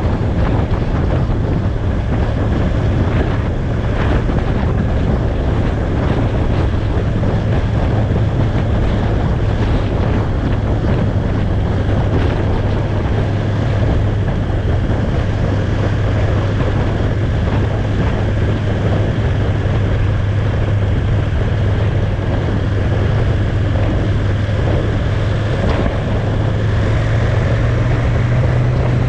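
Motorcycle engine running at a steady cruise under heavy wind noise on the microphone; the engine note rises slightly near the end.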